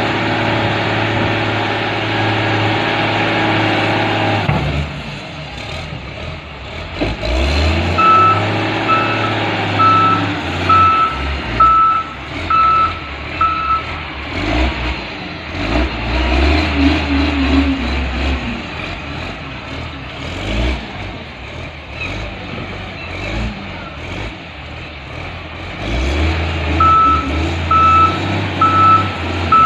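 Loader's diesel engine running and working, steady at first and then varying in pitch and load. Its reversing alarm beeps about once a second in two spells as the loader backs up, from about a quarter of the way in until about halfway, and again near the end.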